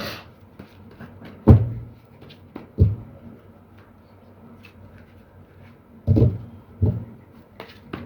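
Several dull thumps on a tabletop, four loud ones spaced a second or more apart, with light taps and clicks between them, as cards are put down and handled during a card game.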